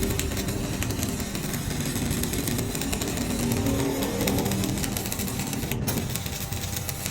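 A motor vehicle's engine running, rough and continuous.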